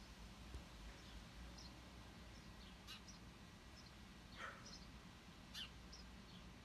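Faint background bird chirps: short, high notes scattered through otherwise near silence, with a few slightly louder, sharper calls about three, four and a half and five and a half seconds in.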